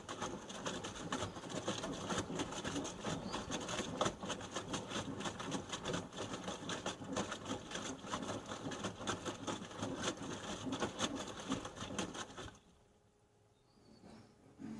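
Panasonic NA-147VB2 front-loading washing machine tumbling its drum mid-cycle: water sloshing and wet laundry splashing and slapping inside the drum. The drum stops about twelve and a half seconds in and it goes much quieter.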